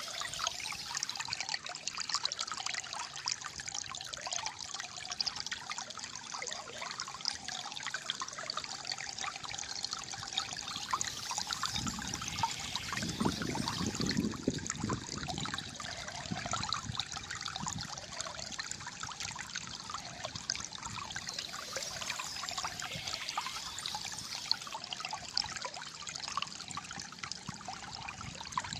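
Calm flowing water trickling and gurgling steadily, with a deeper gurgle swelling for a few seconds about halfway through.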